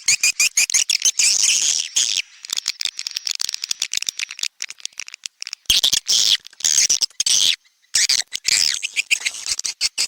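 A recorded swiftlet call track: dense high-pitched twittering chirps and rapid clicks in busy stretches broken by short gaps. It is a lure sound of the kind played at a swiftlet house's entry hole to draw swiftlets in to nest.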